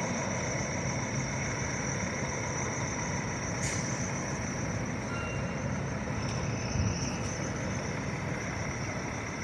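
Steady running noise of an idling truck engine, with a faint steady high tone over it and a brief click a little over three and a half seconds in.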